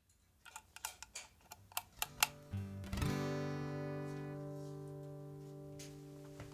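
Acoustic guitar: a run of short muted clicks from the strings, then about three seconds in a full chord strummed and left to ring, fading slowly.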